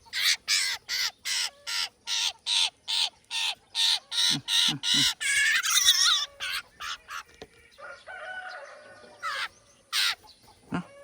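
Eurasian jay fledgling begging while being hand-fed: a fast run of harsh, repeated calls, about three a second, that thins out after about six seconds to a few scattered calls.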